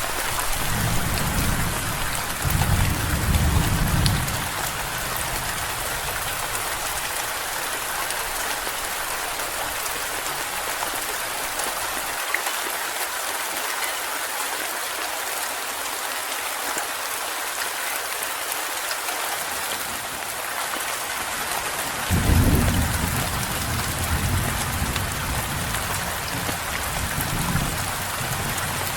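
Steady heavy rain, with low rolls of thunder in the first few seconds and again from about two-thirds of the way through, the later one starting loudest.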